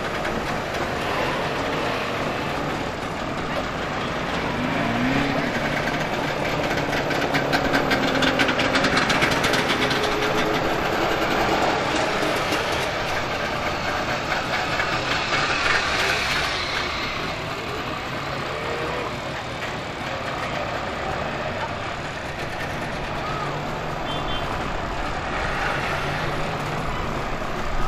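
Trabant two-stroke twin-cylinder engines running as the small cars pull away one after another, a fast rattling engine note that grows loudest about a third of the way in and again just past halfway.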